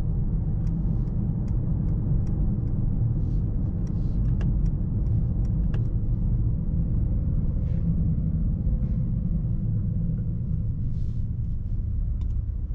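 Cabin sound of the Mercedes-AMG S63 E Performance's twin-turbo 4.0-litre V8 running at steady cruise in fourth gear, with road noise, heard as a low, even rumble.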